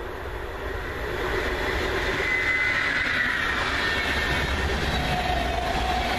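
Regional train of coaches passing close by, growing louder from about a second in, with steady rolling noise of wheels on rails. A high wheel squeal rises over it for a second or so, and a lower steady tone comes in near the end.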